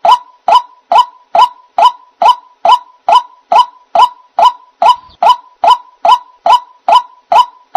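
White-breasted waterhen (ruak-ruak) bird-lure call: one short note, repeated very evenly about twice a second.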